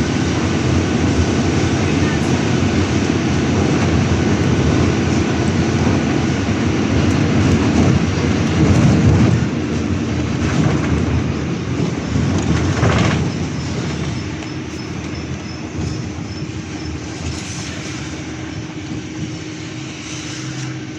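City bus running, heard from inside the cabin: a steady engine and road rumble. It eases off about two-thirds of the way through as the bus slows.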